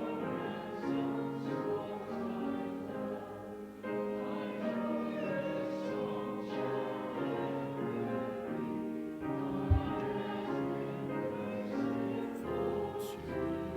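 Group of voices singing a slow hymn with instrumental accompaniment, in phrases with short breaks between them. A brief low thump sounds about ten seconds in.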